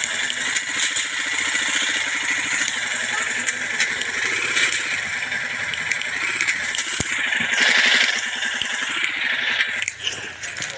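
Motorcycle engine running, its pitch rising and falling, under a loud steady hiss.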